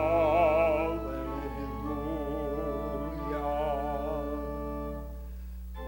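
Easter hymn music: sustained chords under a slow melody with a wavering vibrato, a new phrase starting near the end.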